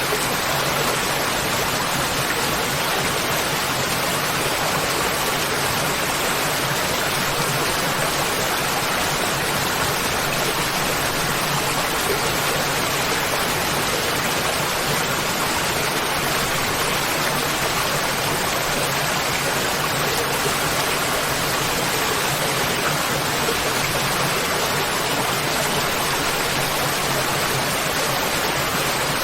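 Waterfall: water falling and rushing in a steady, unbroken roar of noise that does not change.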